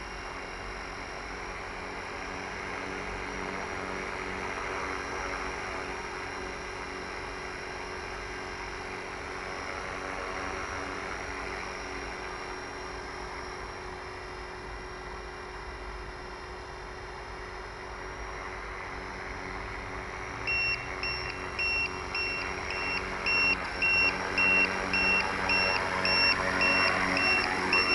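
Steady motor whir with a faint whine. About two-thirds of the way in, a high beep starts repeating about twice a second, and it gets louder near the end.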